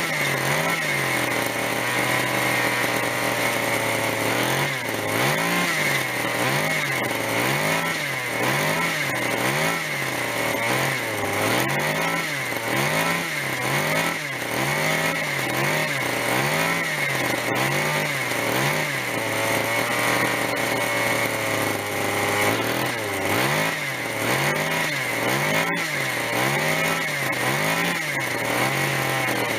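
Zenoah G26 two-stroke gasoline engine of an RC helicopter running warm on a rich mixture. Its speed rises and falls about once a second, steadying briefly near the start and again about two-thirds of the way through.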